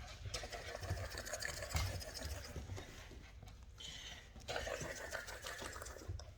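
Rottweiler puppies scuffling at play, a rapid rattling clatter with a short break just past halfway.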